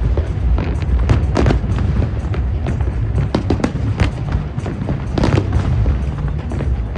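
Fireworks display bursting in quick succession, a sharp crack or boom about every half second over a continuous low rumble, with music playing underneath.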